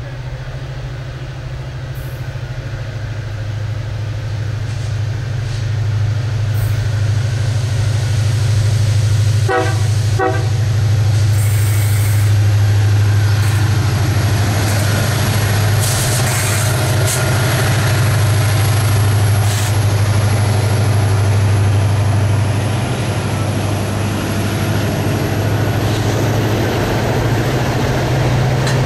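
Freight train passing close by, its diesel-electric locomotives running with a steady low engine drone that grows louder as they approach. Two short horn toots come about ten seconds in, and from about halfway through the rumble and rattle of the passing locomotives and wagons thickens.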